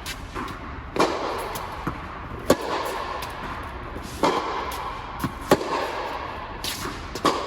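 Tennis rally: sharp ball strikes off racquet strings about every one and a half to two seconds, with fainter ball bounces between them.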